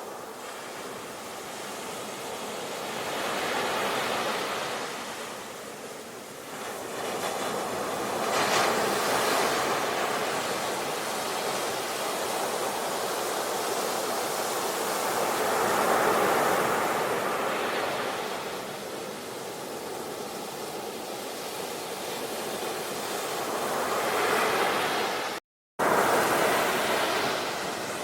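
Ocean waves breaking and washing on a shore, the surf swelling and falling back every few seconds. The sound cuts out completely for a fraction of a second near the end, then resumes.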